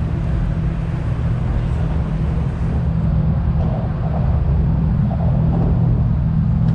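Car engine idling with a steady low hum, faint voices in the background.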